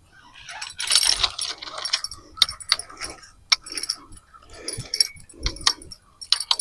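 Fishing gear being handled: rustling, then a string of sharp, irregular metallic clicks and light jingles.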